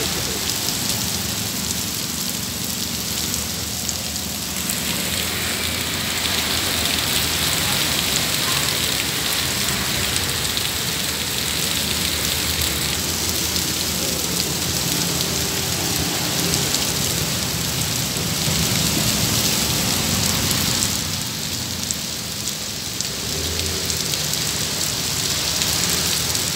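Heavy rainstorm: a steady downpour hissing onto pavement and road, easing slightly twice before building again.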